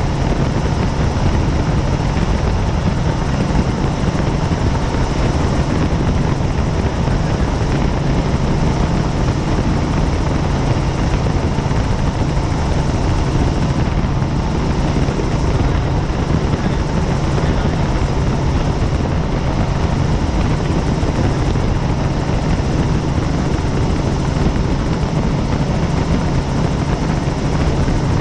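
Helicopter in flight, heard from on board: a loud, steady rotor and engine drone that does not change.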